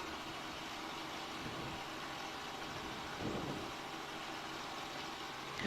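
News helicopter's engine and rotor noise, a steady, even drone picked up inside the cabin.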